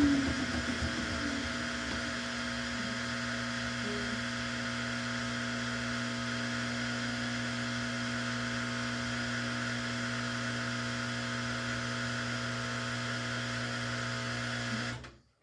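Samsung washing machine running mid-cycle, its motor and drum giving a steady hum that stops abruptly near the end.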